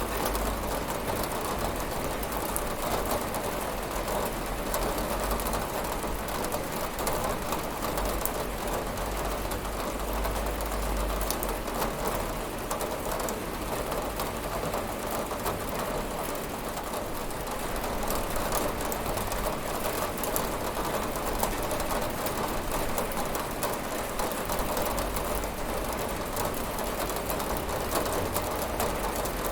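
Steady rain on a window: an even hiss dense with fine drop ticks, over a low rumble that swells and fades.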